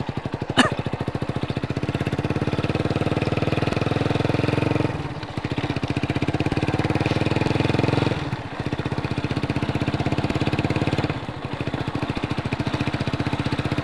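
Small motorbike engine running steadily under way, its firing pulses even. The level drops briefly three times, about 5, 8 and 11 seconds in, as the throttle eases.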